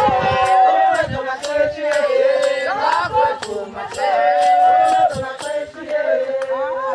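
Group of voices chanting and singing over a steady held note, with a sharp beat about three times a second.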